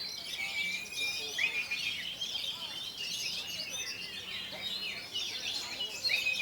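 Oriental magpie-robin (kacer) singing a rapid, varied stream of chirps and whistles, broken by a few longer held whistles.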